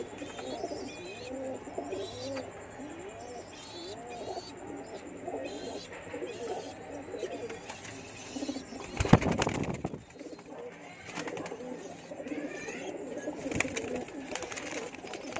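Several domestic pigeons cooing, their low arched coos overlapping continuously. A loud, brief rustling burst comes about two-thirds of the way through.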